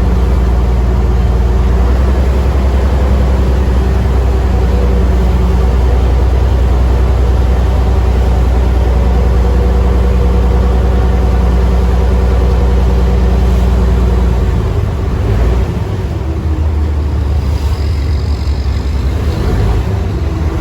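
Diesel engine of a river ferry boat running steadily with a loud low rumble; about fifteen seconds in the deepest part of the rumble drops away and the engine note changes.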